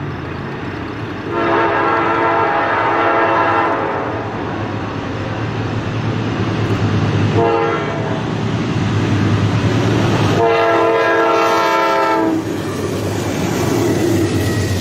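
Freight locomotive horn blowing a long blast, a short blast and then another long blast, over the steady rumble of a passing freight train.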